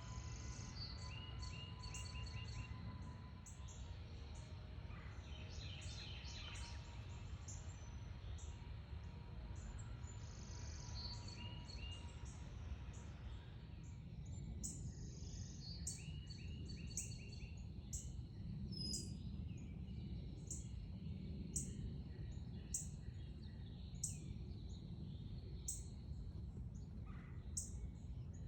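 Backyard songbirds chirping and calling: many short high chirps and little trills, and in the second half one bird repeating a sharp chirp about every second and a half. A steady low rumble runs underneath.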